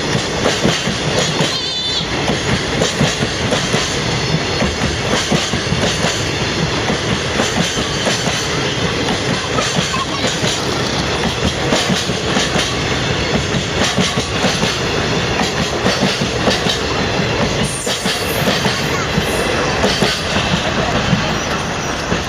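Freight train passing, its wagons rolling by with a steady, dense clatter of wheels on the rails.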